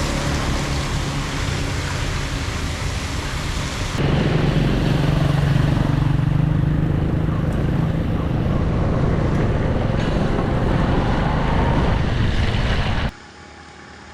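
Floodwater rushing steadily into a storm drain, a loud even noise that turns deeper and louder about four seconds in and drops away abruptly near the end.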